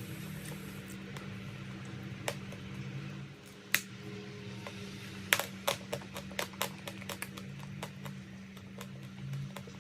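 A quick, irregular run of sharp crunching cracks, like chalk being bitten or crushed, starting about halfway in, with a few single cracks before it. A steady low hum runs underneath.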